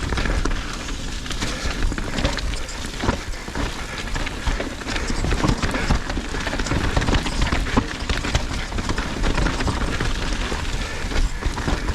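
Mountain bike riding down a rough, wet, icy trail over roots: a steady rush of tyre and wind noise with frequent knocks and rattles from the bike.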